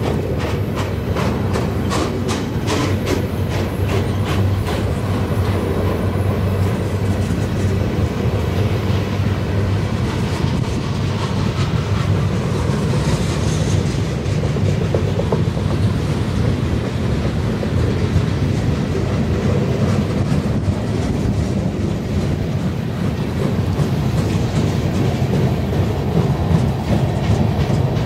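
Freight cars of a BNSF train rolling past close by: a steady low rumble of steel wheels on rail, with repeated clicks as the wheel sets cross rail joints, most marked in the first few seconds.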